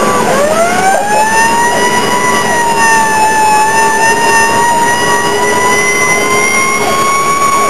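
Fire engine siren wailing. Its pitch is low as the sound begins, climbs back up over about a second, then holds high with a slow rise and fall.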